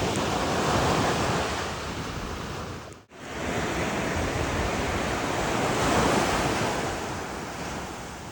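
Ocean surf washing ashore, with wind buffeting the microphone; the sound swells and eases, and cuts out for a moment about three seconds in.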